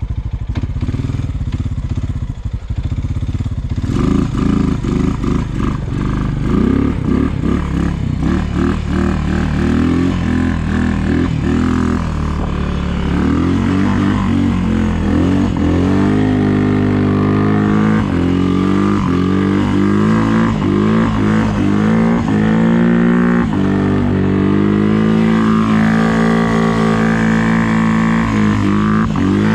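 Snow-plowing vehicle's engine running and revving up and down again and again, its pitch rising and falling as it pushes snow; it grows louder about four seconds in.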